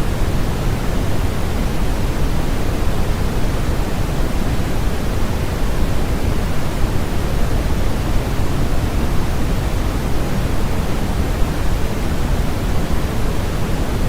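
Steady generated noise for sleep, an unbroken even hiss and rumble with most of its weight in the low end, closer to pink noise than flat white noise. It does not change in level or character.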